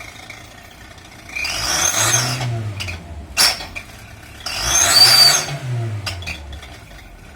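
Toyota Corona Absolute's engine revved twice through its modified stock exhaust, each rev rising and falling over about a second and a half with a high whistle riding on it, the turbo-like sound the modification is meant to give. A sharp click falls between the two revs.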